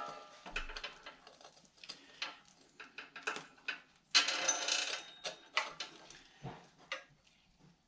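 Metal roller chain being handled: scattered clicks and clinks of the links, with a louder rattle of just under a second about four seconds in, tapering off near the end.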